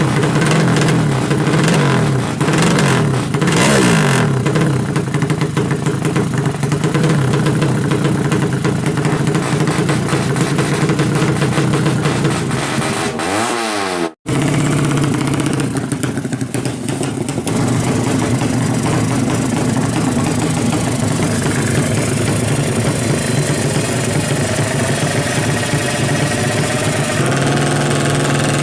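Yamaha Jupiter Z four-stroke motorcycle engine, built out to 200cc for racing, running and being revved up and down a few times. The sound drops out for an instant about halfway through, then the engine runs on steadily.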